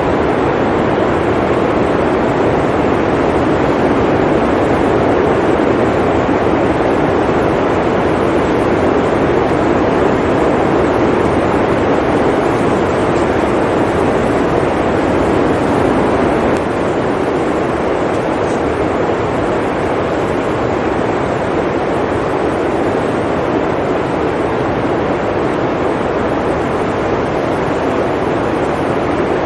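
Steady roar of blizzard wind, with no gusts or clicks, easing slightly about halfway through.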